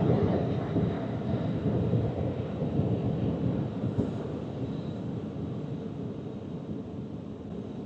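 Drive-through car wash's air dryer blowers, a steady rushing noise that slowly fades as the car moves through and out of the dryer stage.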